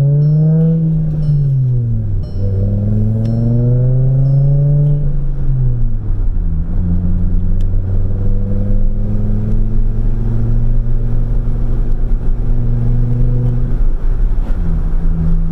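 Straight-piped exhaust of a 2013 Volkswagen Golf, mufflers cut out, as the car accelerates from first gear. The engine note rises, drops at a gear change about two seconds in, rises again and falls around six seconds, then settles into a steady drone while cruising, with a brief dip near the end.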